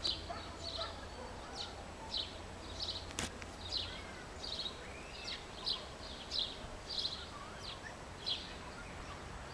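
A bird calling repeatedly outdoors: short high chirps, about one or two a second, over a low steady hum. One sharp click comes about three seconds in.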